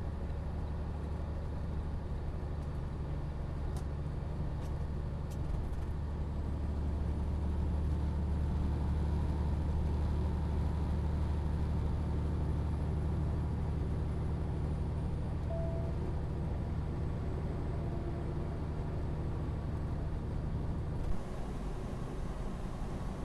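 Steady low drone of a truck's engine and road noise heard inside the cab. About 21 seconds in, a short knock comes and the drone drops away suddenly.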